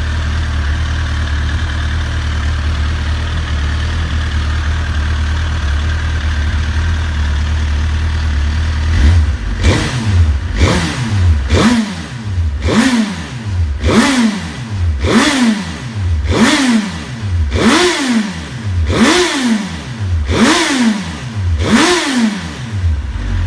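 2007 Suzuki GSX-R1000's inline-four engine idling steadily, then about nine seconds in revved in about a dozen quick throttle blips, roughly one a second, each rising and falling in pitch, before settling back to idle near the end.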